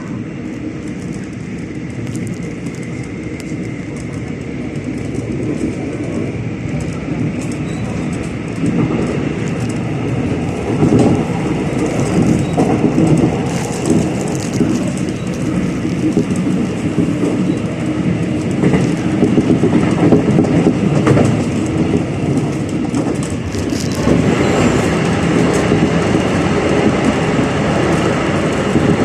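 Electric commuter train with a Toshiba IGBT traction inverter, heard from inside the car: running noise and wheels clacking on the rails, with a steady electric whine above. It grows louder over the first ten seconds or so as the train picks up speed.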